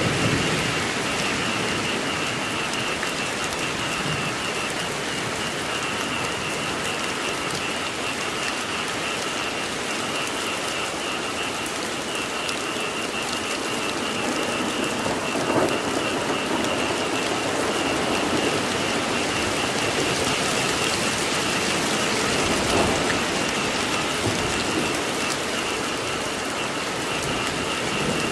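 Steady rain falling, with a continuous high-pitched chorus of frogs calling underneath. A low rumble of thunder swells briefly about halfway through and again later on.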